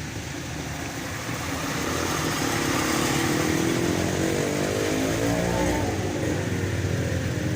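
Motor vehicle engine running over a steady low rumble, rising in pitch from about two seconds in as it revs or accelerates, then dropping back near the six-second mark.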